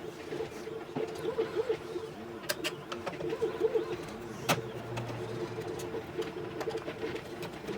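Scattered sharp clicks and clinks of small parts and tools being handled while a pinball playfield is stripped, with one louder click about halfway through followed by a brief low hum. A steady warbling tone sits underneath.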